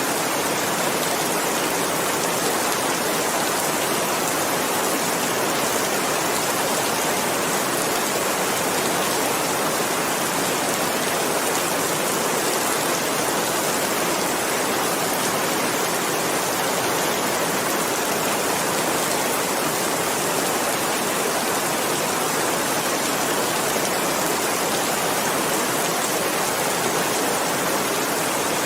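Steady rain falling, a dense, even hiss with no single drops or thunder standing out.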